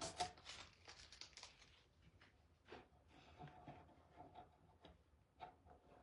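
Faint, scattered rustles and small ticks of tape being picked at and peeled off a stencilled surface.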